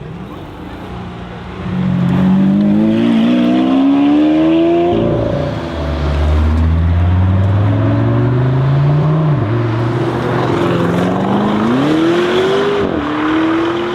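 ABT Audi RSQ8-R's 4.0-litre twin-turbo V8 accelerating hard, its note rising in pitch through the gears. It gets loud about two seconds in, with upshifts that drop the pitch about five, nine and thirteen seconds in.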